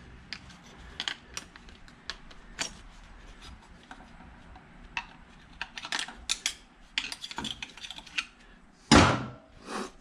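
Hand tools and small metal scrap parts clinking and knocking on a workbench in a string of short irregular clicks, busier in the second half, with one loud knock near the end.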